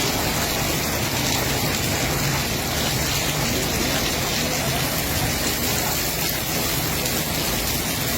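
Heavy rain falling, a steady dense hiss with no breaks, with a low steady hum underneath.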